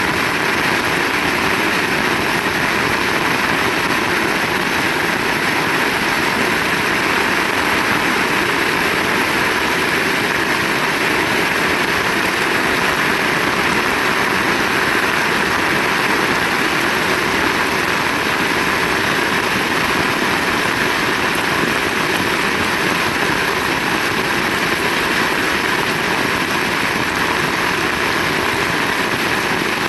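Heavy rain pouring steadily, an even hiss and roar with no claps or breaks.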